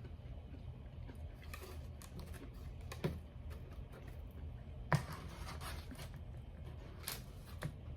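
Handling sounds at a meal: a few sharp clicks and taps, the loudest about three and five seconds in, with light rustling between them, over a steady low hum.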